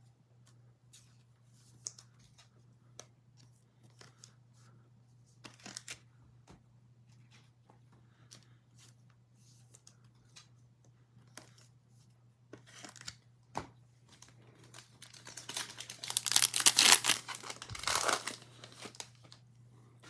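Trading-card pack wrapper being torn open and crinkled: scattered light clicks and rustles of card handling, then from about three-quarters of the way in a louder stretch of tearing and crinkling of the wrapper, over a faint steady electrical hum.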